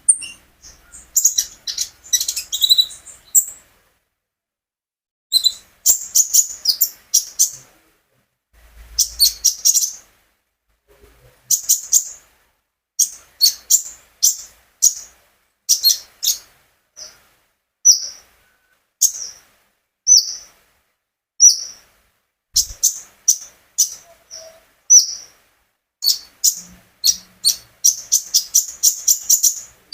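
A konin songbird singing: phrases of quick, high chirps and trills, broken by short pauses of about a second.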